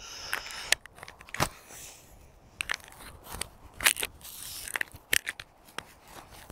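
Handling noise from a microphone being adjusted by hand: irregular clicks, scrapes and rustling, loudest about a second and a half in and again about four seconds in.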